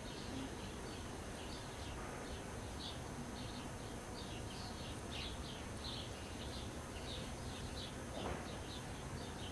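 Small birds chirping in quick short calls again and again, over a steady low outdoor background rumble.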